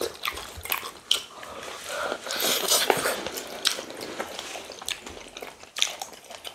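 Close-up mouth sounds of people eating meat by hand: chewing with many short wet smacks and clicks, denser for a second or so near the middle.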